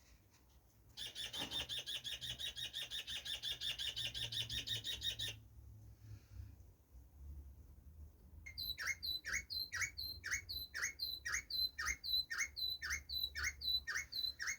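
Bird calling: a rapid buzzing trill for about four seconds, then, after a pause, a string of repeated downward-sliding whistled notes, about two a second.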